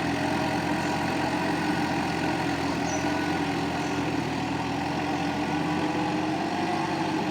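Sonalika tractor's diesel engine running at a steady pitch while pulling a cultivator through a field.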